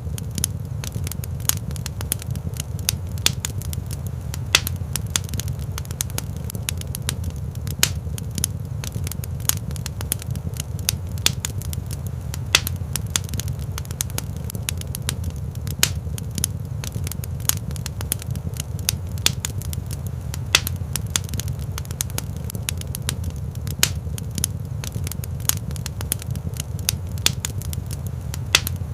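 Wood fire burning in a fireplace: a steady low rumble of flame with many sharp, irregular crackles and pops.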